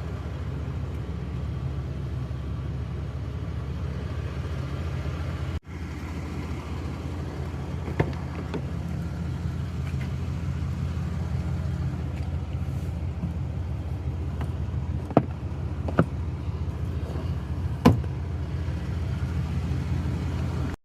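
Cummins 6.7-litre inline-six turbodiesel in a 2021 RAM 3500 dually idling steadily with a low rumble. A few sharp clicks sound in the second half.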